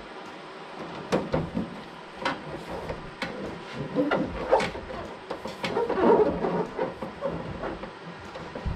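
A plexiglass sheet being pressed by hand against the underside of a car hood onto double-sided adhesive: irregular knocks and taps with rustling as the plastic is handled and pushed into place.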